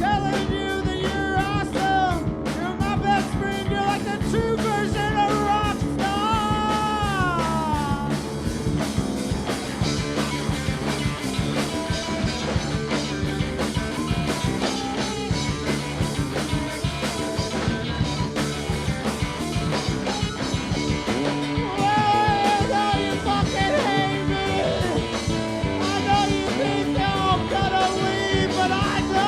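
Live rock band playing a song, with electric guitar, drums and a sung lead line.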